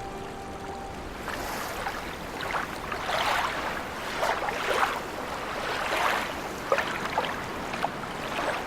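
Lake water lapping and splashing in irregular swells, about one a second. The tail of a musical passage fades out in the first second.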